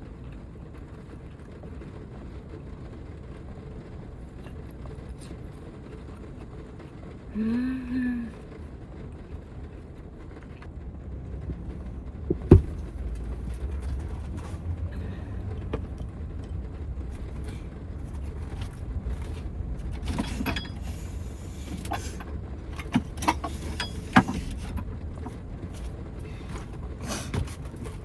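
Low steady rumble of typhoon rain and wind on the van, heard from inside the cabin, growing a little heavier partway through. A short hummed voice sound about eight seconds in, then scattered clicks and knocks of things being handled, one sharp click and a busy run of them near the end.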